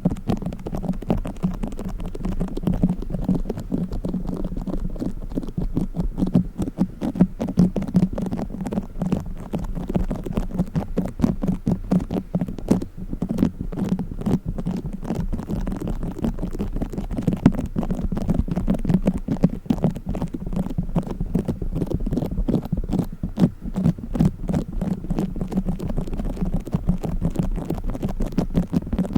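Play foam squished and kneaded close to the microphone, giving a dense, continuous crackling of tiny foam beads.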